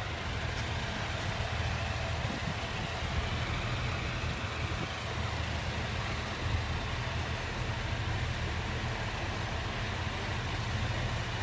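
Diesel passenger train's engine idling: a steady low rumble that holds evenly throughout.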